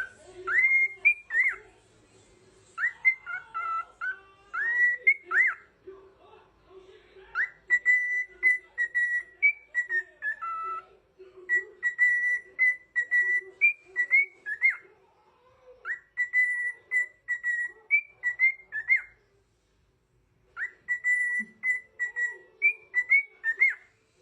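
Parrot whistling a repeated tune: phrases of clear whistled notes with short upward glides, broken by brief pauses.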